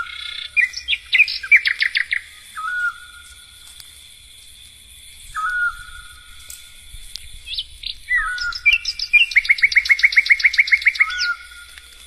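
A songbird singing short whistled notes and two fast trills of about nine notes a second, one near the start and a longer one near the end.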